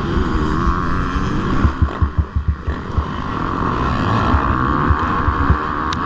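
MX2 motocross bike engine running at race speed, with wind buffeting the microphone. A cluster of low thumps comes about two seconds in.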